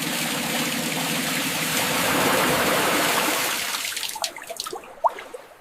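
Water pouring and streaming in a steady rush that starts suddenly and fades away over the last two seconds, with a few faint clicks near the end.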